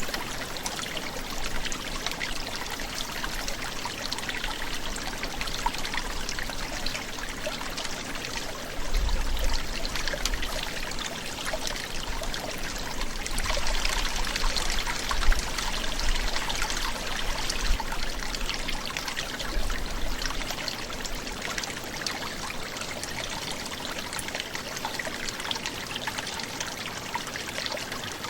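Forest brook gurgling, a steady rush of running water. A low rumble sits under it from about nine to twenty seconds in.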